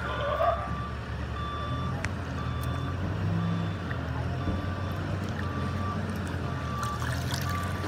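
A vehicle's reversing alarm beeps at an even pace, about once a second, over the steady low drone of a running truck engine.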